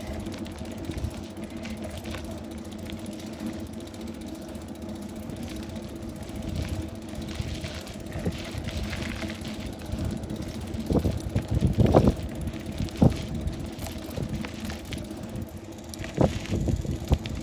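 Bicycle rolling along a road: a steady hum and rumble from the ride, with a cluster of knocks and rattles from bumps about two-thirds of the way through and more near the end.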